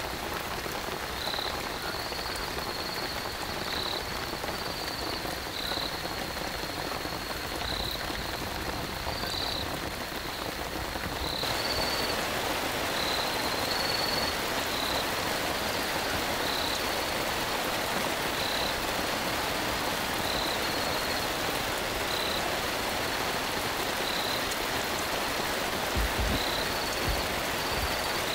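Steady rain falling and pattering, growing a little heavier about a third of the way in. Over it an animal calls in short, high chirps about once a second. A few low thumps come near the end.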